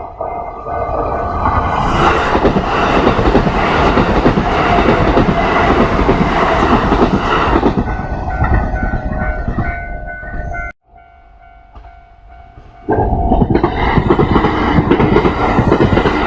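Kintetsu electric trains running past at a level crossing, wheels rattling over the rail joints, with the crossing alarm bell ringing its repeating two-tone ding. The first train passes loudly for about eight seconds. After a sudden cut-out about eleven seconds in, the alarm rings on its own for a moment before a second train starts passing loudly near the end.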